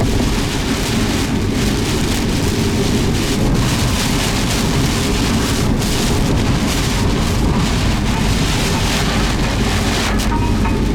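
Steady, loud rush of rain and wind from an approaching typhoon, over a constant low rumble.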